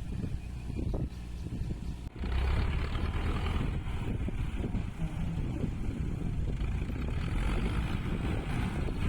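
Tractor engine running with a steady low rumble, growing suddenly louder and fuller about two seconds in.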